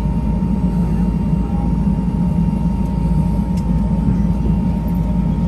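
Steady cabin noise inside an Airbus A320-200: a loud, even low rumble with a thin, steady whine on top. It cuts off abruptly at the very end.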